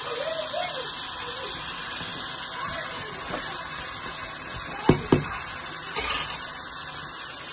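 Cauliflower florets sizzling in spiced oil in an aluminium pot, with a steady hiss. A metal spoon stirs them and knocks against the pot twice about five seconds in.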